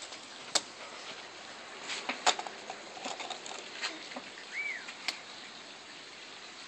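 Scattered clicks and knocks of toy monster trucks being handled, picked up and set down, with a brief squeak a little past the middle.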